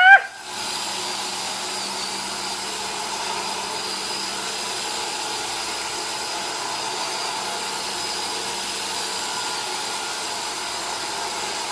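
iRobot Roomba robot vacuum running: a steady whirring hiss from its vacuum motor and brushes, with a faint high whine held at one pitch.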